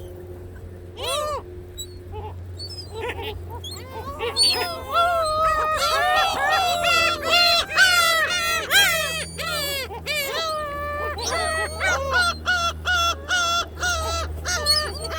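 A flock of gulls calling, many short arching cries overlapping; the calls are scattered at first, then crowd together about four seconds in and stay busy, over a steady low rumble.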